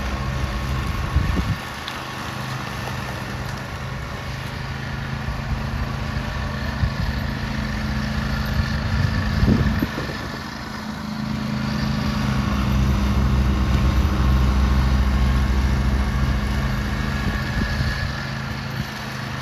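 Engine of a small cab-enclosed vehicle running steadily. Its hum drops back a couple of times and grows louder for a few seconds about two-thirds of the way in, as it works.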